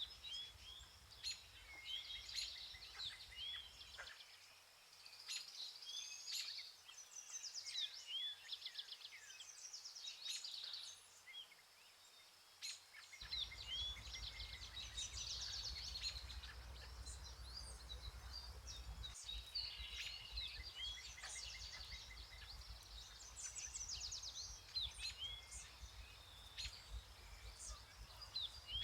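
Several songbirds singing and calling together in a forest chorus of short chirps and trills, over a faint low rumble that drops away for a while in the first half.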